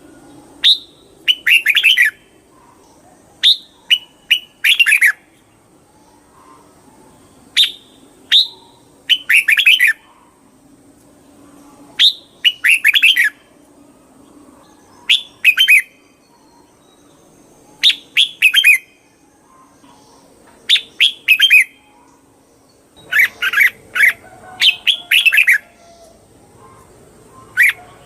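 Red-whiskered bulbul singing: short, loud phrases of several quick chirpy notes, repeated every few seconds.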